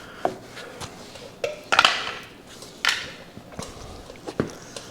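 Scattered metallic clicks and clinks of hand tools and small engine parts being handled, about half a dozen separate knocks with a short clatter about two seconds in.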